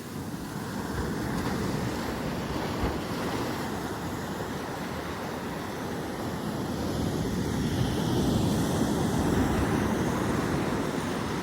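Big ocean surf: a continuous rush of breaking waves, with wind buffeting the microphone. The rush swells louder about eight seconds in.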